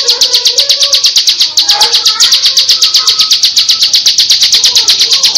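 Bar-winged prinia (ciblek) singing its 'ngebren' song: a fast, even drill of sharp high notes, about nine a second, without a break.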